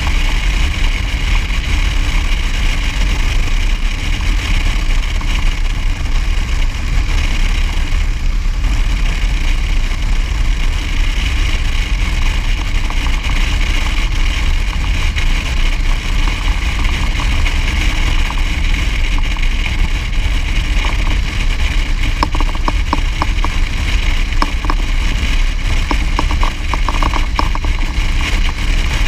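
Vehicle engine running steadily on the move, with heavy wind rumble on the microphone.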